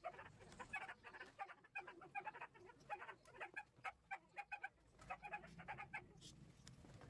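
Bird calling in a quick run of short, repeated pitched notes, about three a second, with a brief pause about five seconds in.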